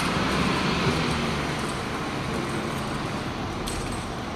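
Steady road traffic noise: the rush of passing vehicles' engines and tyres, with no single event standing out.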